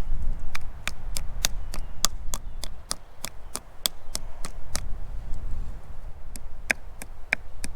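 Repeated hand-tool strikes, most likely a hammer: a steady run of sharp knocks at about three a second, then a few slower, harder knocks near the end, over a low rumble. The work is being done by hand in place of a bigger drill.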